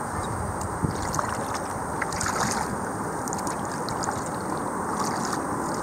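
Kayak on a river: a steady rush of water with wind on the microphone, and a few light knocks.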